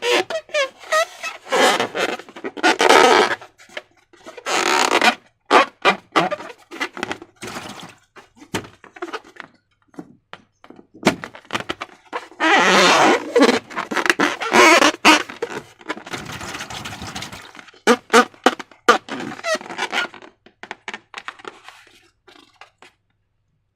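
Slime being squished, stretched and pressed by hand: an irregular run of wet squelches, sticky crackles and clicks, with a few longer squelching stretches.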